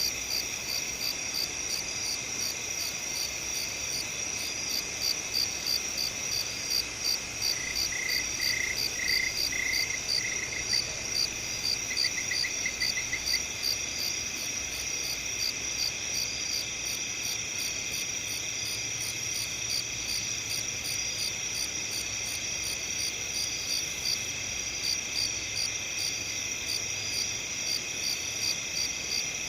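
Chorus of crickets chirping steadily, with a high, rapidly pulsing trill over a continuous high hum. A second, lower pulsed chirping comes in briefly from about eight seconds in.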